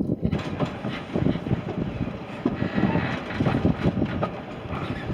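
A train running along the track.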